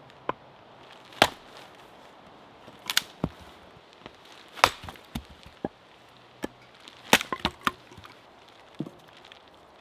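A knife or cleaver chopping steak into burger meat on a wooden board: about a dozen sharp, irregular strikes, with a quick cluster of four a little after seven seconds in.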